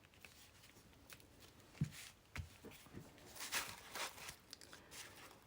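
Faint rustling of paper being handled, with a few light taps and clicks scattered through it.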